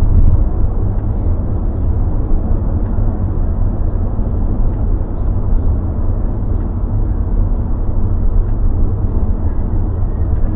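Steady road rumble inside the cabin of a moving Toyota Corolla Cross hybrid, mostly deep and low. The car is called very noisy inside, with no sound insulation to speak of.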